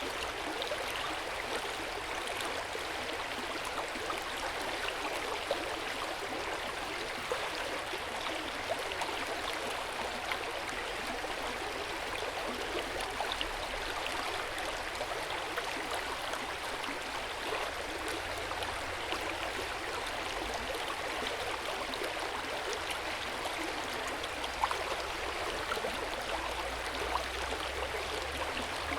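Hot-spring water flowing steadily into an outdoor onsen bath: a continuous, even splashing and trickling, flecked with small drips.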